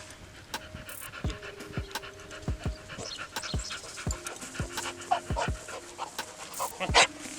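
A Mastiff and Bully mix puppy panting hard while it works a track, over background music with a deep bass beat that drops in pitch on each hit.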